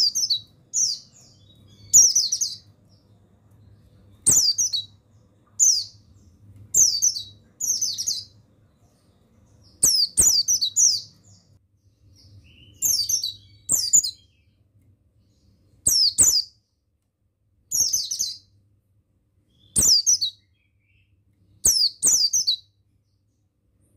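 Buxtoni white-eye (pleci) calling: short bursts of high, quickly falling chirps, repeated about every two seconds.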